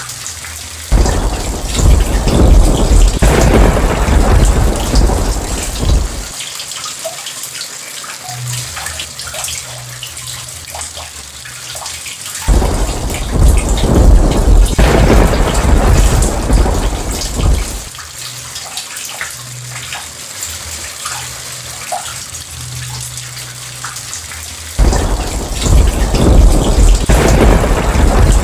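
Steady rain falling, with three long rolls of thunder about twelve seconds apart, near the start, in the middle and near the end. Each one starts suddenly and rumbles deep and loud for about five seconds before fading back under the rain.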